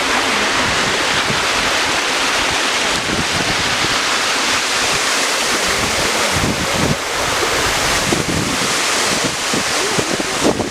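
Waterfall pouring, a loud, steady rush of water, with wind buffeting the microphone in the second half.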